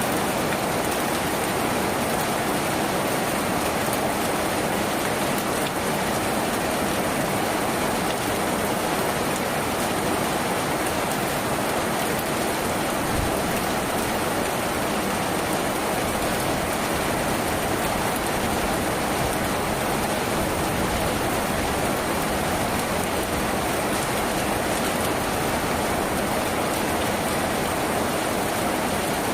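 Steady heavy rain drumming on a tin roof, an even unbroken hiss of drops.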